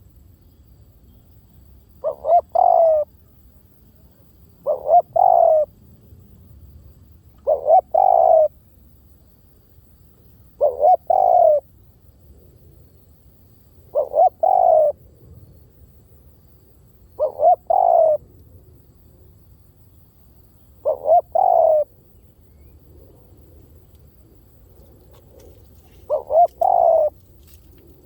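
Spotted dove cooing: eight calls about three seconds apart, each two short notes run into a longer one, with a longer pause before the last call.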